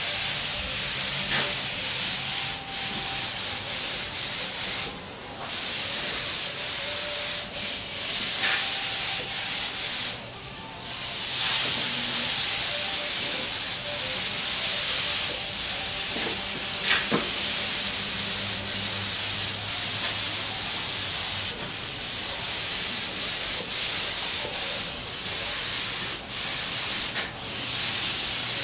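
Paint being sprayed onto motorcycle frame parts: a steady hiss of spraying, stopping briefly a few times between passes.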